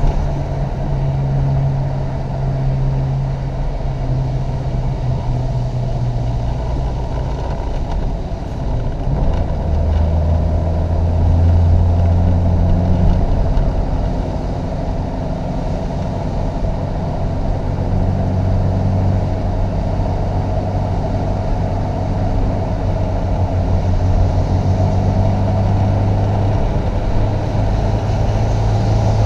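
1988 Chevrolet Opala Comodoro's original four-cylinder petrol engine running under load, its note holding and then shifting up and down several times with the throttle and gears.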